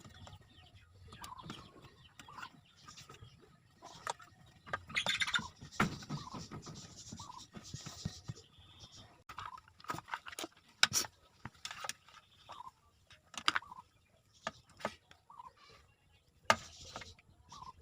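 Scattered clicks and knocks with a few short rustling bursts, from handling a mini sewing machine and its packaging.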